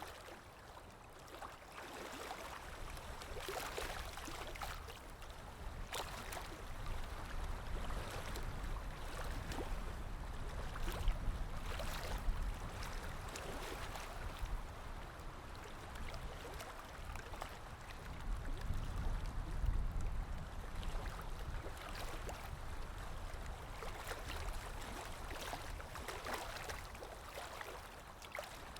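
Ambience of water lapping with wind: a low wind rumble under a steady wash of small, irregular splashes of water.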